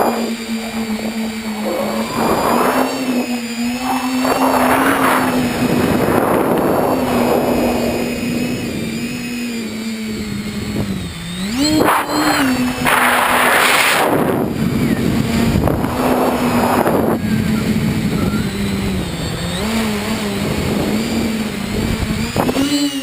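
Tricopter's three electric motors and propellers humming steadily, the pitch drifting up and down with throttle and rising quickly about twelve seconds in, with repeated swells of rushing air noise.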